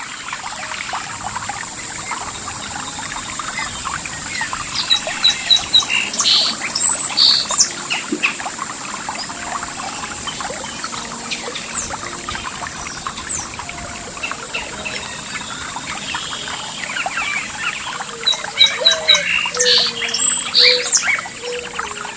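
Birds chirping and singing over steadily trickling water. The song is louder about five seconds in and again near the end.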